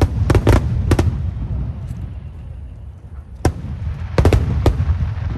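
Aerial firework shells bursting overhead in quick clusters: a run of about four sharp bangs in the first second, then another three or four from about three and a half seconds in, with a deep rumbling echo carrying on between the bursts.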